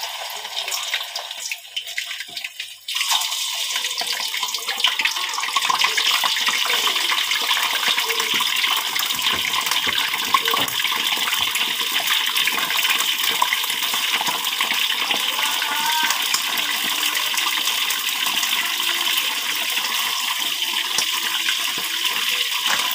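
Frying in a covered wok over a gas flame: a steady, dense sizzle full of fine crackling, which grows fuller about three seconds in.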